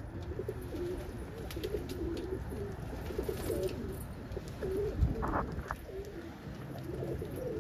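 Domestic pigeons cooing, several birds overlapping in a continuous low, wavering coo. A single sharp knock sounds about five seconds in.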